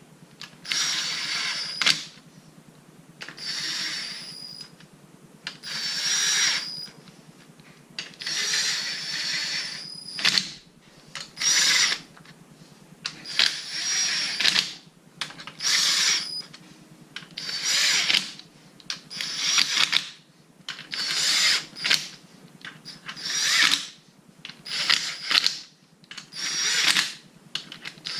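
Impact wrench with a 17mm socket snugging down a row of bolts on a rotary engine: about a dozen short runs of the tool, each about a second long with a steady whine, roughly two seconds apart, one bolt after another. The bolts are only being snugged, not yet torqued.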